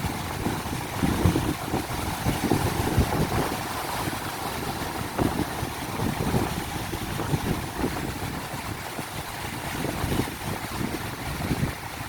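Ocean surf washing in steadily, with strong wind gusting against the microphone in irregular low buffets.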